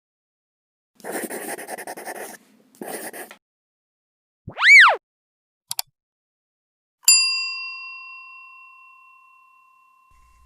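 A string of intro sound effects: two short noisy bursts, a loud quick tone sweeping up and back down, two brief clicks, then a bell-like ding about seven seconds in that rings on and slowly fades.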